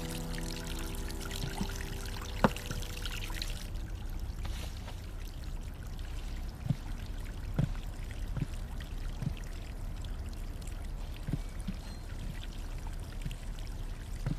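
Steady trickling, flowing water ambience, with a few soft taps now and then. A held music note fades out in the first second.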